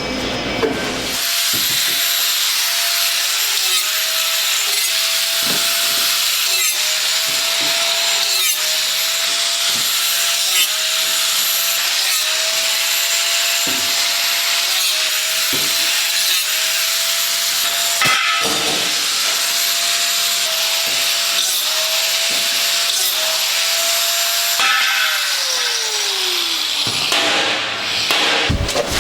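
Electric power tool running at speed. Its motor pitch sags briefly every second or two as it is pressed into the work. Near the end it is switched off and winds down with a falling whine.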